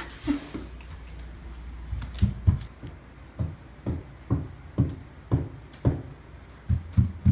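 A series of dull, low thumps at a walking-like pace of about two a second, starting about two seconds in.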